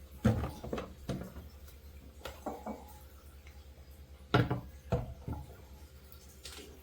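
Plastic refrigerator door racks being put back into the fridge door: a series of separate knocks and clicks as they are handled and set into place, the loudest about a second in and again past the middle.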